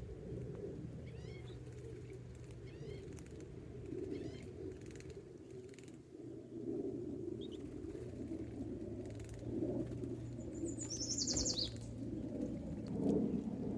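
Bird calls: a few small high chirps in the first seconds and a short, rapid, high trill a little past the middle, over a steady low rumble and hum.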